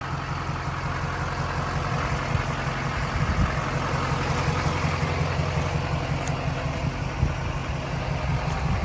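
A 6.6L Duramax turbo diesel engine idling steadily, a low, even rumble.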